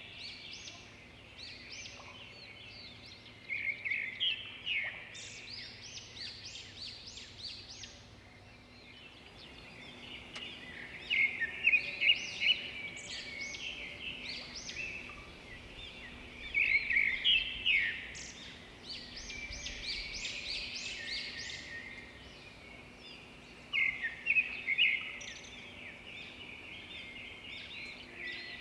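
Many small birds chirping and calling together in a dense, continuous chorus of quick high chirps, swelling into louder flurries several times.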